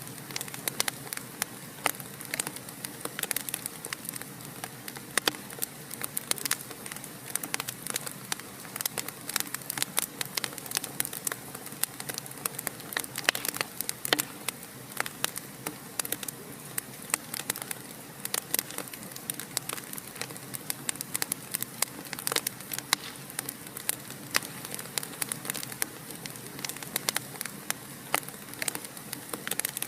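Wood fire crackling steadily in a fireplace, with frequent sharp, irregular pops and snaps over a soft hiss.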